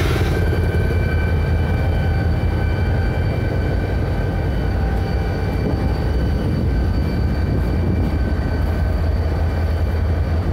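Steady low mechanical rumble, like a running engine or vehicle, with a faint steady high whine over it.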